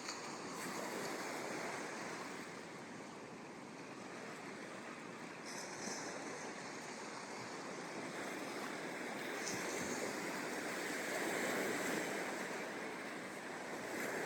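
Ocean surf breaking and washing up a sandy beach, a steady rush that swells louder about two-thirds of the way through as a wave comes in.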